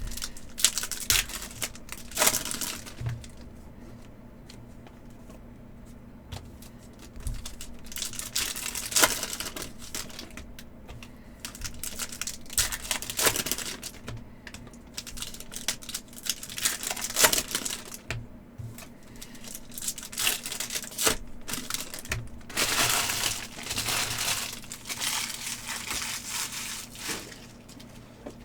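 Hockey card pack wrappers being torn open and crinkled, with cards handled, in irregular bursts of rustling and small clicks over a faint steady low hum.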